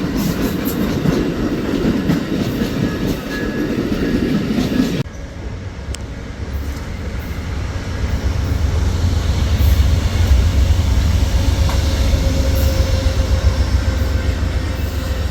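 Amtrak passenger train passing close by, its wheels clacking and rattling over the rail joints. About five seconds in the rattle drops away abruptly, leaving a steady low rumble.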